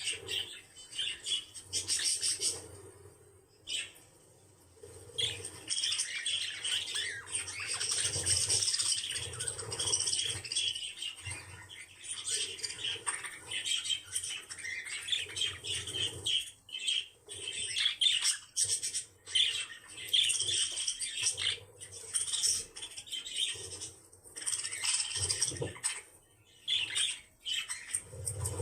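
Small pet birds chattering and chirping almost without a break, a busy mix of twittering calls and scratchy clicks, with a short lull a few seconds in.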